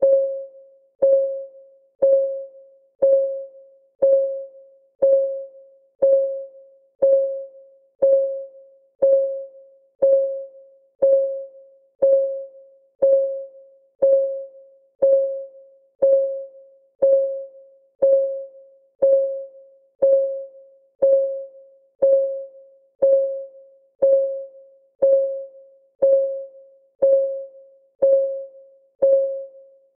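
Countdown timer's synthetic clock tick: one short pitched tick each second, each with a sharp start that dies away within about half a second, in a perfectly even rhythm.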